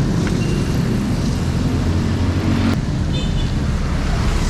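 Wind buffeting the microphone and road and traffic noise from a moving bicycle, a steady low rumble. A short high tone sounds about three seconds in.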